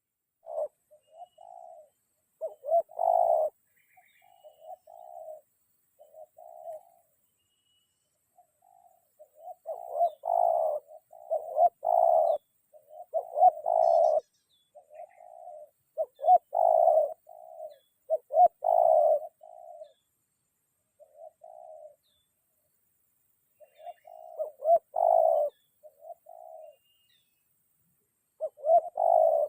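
Spotted doves (tekukur) cooing in repeated phrases of several short, throaty notes, with gaps of a second or two between phrases. This is the 'ngruk' call used in dove luring.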